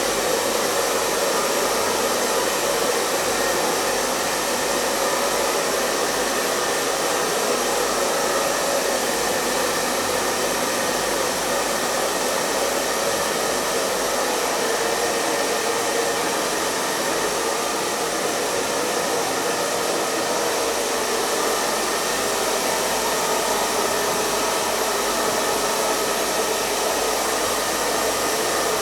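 Hair dryer running steadily, an even airy rush of blown air over a motor hum with a faint high whine.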